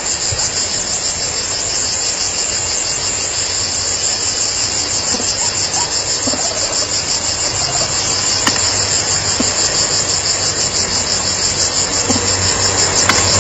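Dense insect chorus: a loud, steady, rapidly pulsing high-pitched buzz of crickets or cicadas. A low hum comes in near the end.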